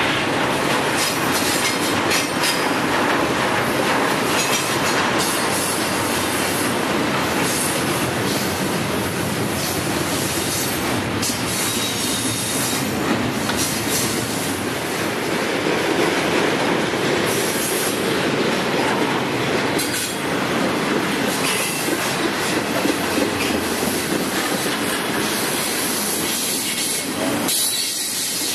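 Freight train cars rolling past: a steady rumble and clatter of steel wheels on the rails, with high wheel squeal coming and going.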